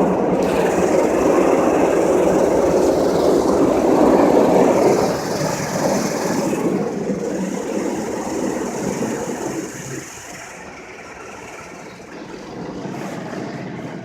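Automatic car wash rinse jets spraying water onto the car, heard from inside the cabin as a loud rushing hiss. It starts suddenly, is strongest for about five seconds, then fades and drops away at about ten seconds.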